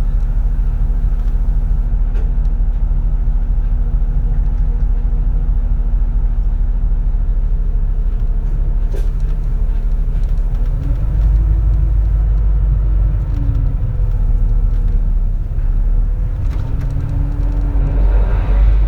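The engine of a 2004 CNG (compressed natural gas) city bus, heard from inside the cabin, runs at a steady pitch. About ten seconds in it grows louder and its pitch rises as the bus pulls away, then falls and rises again near the end.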